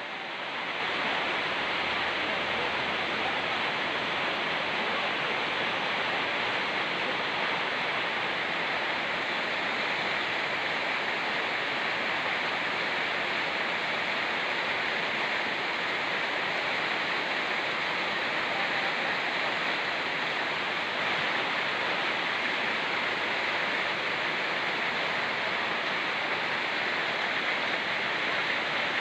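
Rain falling together with a fast-flowing mountain river: a steady, even rush of water that rises in the first second and then holds.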